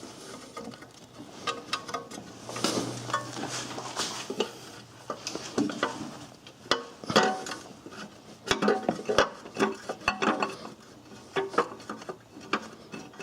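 Hand tools clinking and knocking on metal as a 17 mm bolt is worked loose and taken out of an engine mount bracket: irregular clicks and clanks, some with a short metallic ring.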